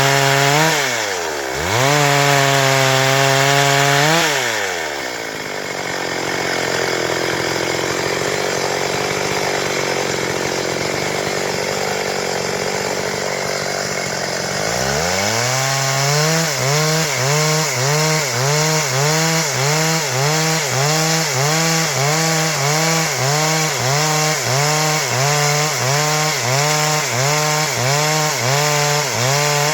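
Stihl MS 382 two-stroke chainsaw running at high revs while cutting wood. Its pitch dips sharply and recovers twice in the first few seconds, turns rougher for about ten seconds, then settles into a steady note that wavers in pitch about once a second.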